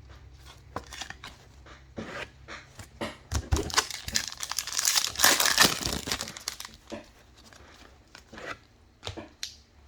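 A Prizm Draft Picks trading-card pack wrapper being torn open and crinkled, with scattered rustles and clicks and a dense, loud stretch of crinkling about four to six and a half seconds in.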